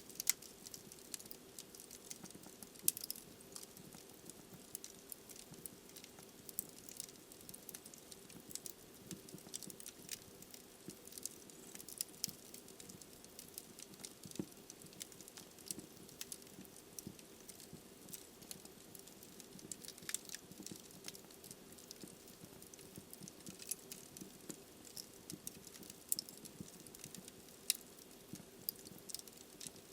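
Wood fire burning in a fireplace, logs crackling with irregular sharp pops and ticks over a soft steady hiss.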